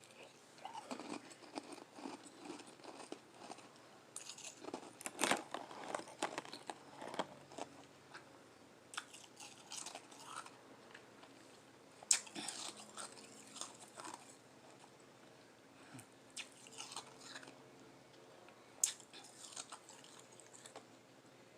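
Close-up mouth sounds of chewing and biting flavoured ice, with soft irregular crunches, the sharpest about five, twelve and nineteen seconds in.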